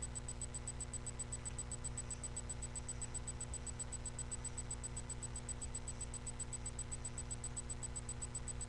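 Steady low electrical hum and hiss with a thin high whine, the background noise of a webcam recording, with no distinct handling sounds standing out.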